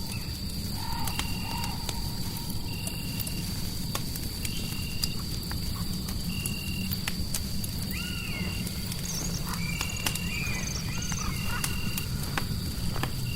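Layered fireplace ambience: a fire crackling in sharp clicks over a steady low rumble of white noise, with a short high chirp repeating about every two seconds and a few wavering calls about two-thirds of the way in.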